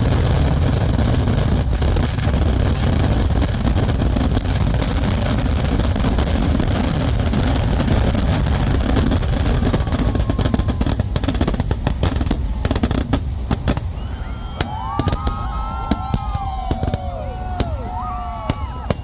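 Kerala temple-festival fireworks (vedikettu): a dense, continuous barrage of bangs and crackling that thins after about ten seconds into separate sharp bangs, with rising and falling whistles in the last few seconds.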